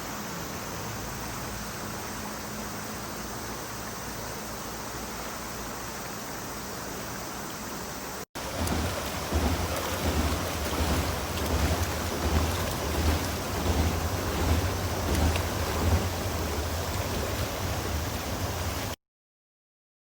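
Heavy rain, heard as two clips: a steady hiss for about eight seconds, then after a sudden cut a louder, uneven stretch with a pulsing low rumble, which stops abruptly near the end.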